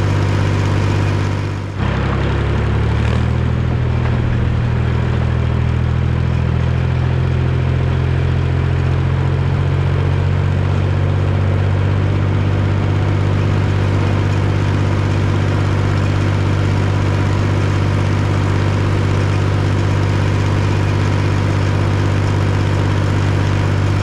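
Mahindra tractor's diesel engine running steadily, with a brief dip and change in pitch about two seconds in before it settles again.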